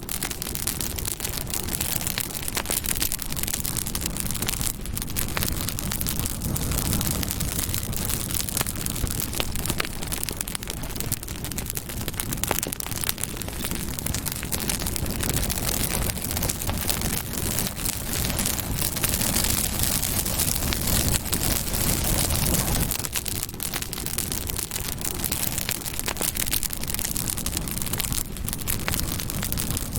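Campfire burning, with a steady dense crackle and frequent small pops.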